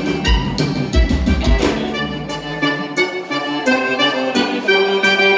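Live gaúcho dance music led by button accordion (gaita), playing rhythmic chords and a melody. About two seconds in, the bass and drum beat drop out and the accordion carries on with little backing.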